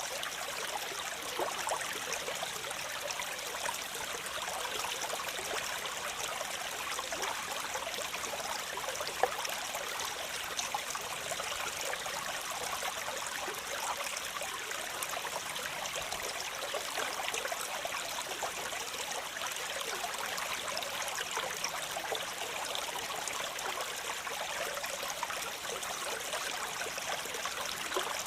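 Waterfall: a steady rush of falling, splashing water, mostly a bright hiss with little deep rumble.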